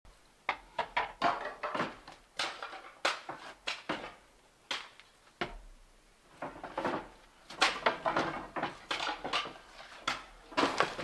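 Irregular knocking and clattering of hard objects being handled: many short separate strikes with brief pauses, one near-silent gap in the middle.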